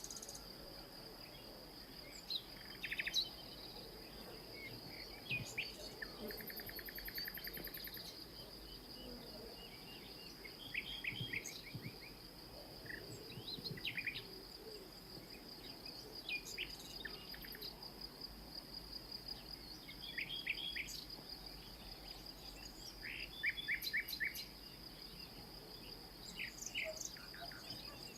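An insect trills steadily at a high pitch, with birds chirping over it in short, quick runs of notes throughout.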